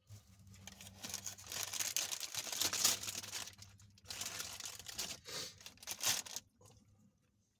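Packaging being crinkled and rustled, likely plastic or paper, in a dense crackling stretch of about six seconds with a brief pause partway through.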